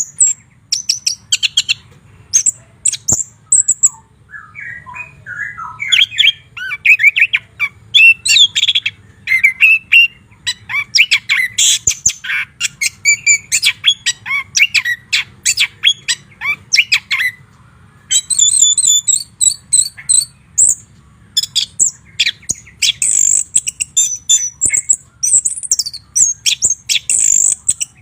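White-rumped shama (murai batu) singing a loud, varied song of clear whistles and rapid, sharp chattering notes, with a short pause a little past the middle.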